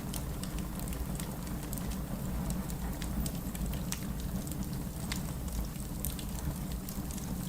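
Steady heavy rain with a deep, even rumble, mixed with a wood fire crackling in a fireplace, its sharp pops and snaps coming irregularly throughout.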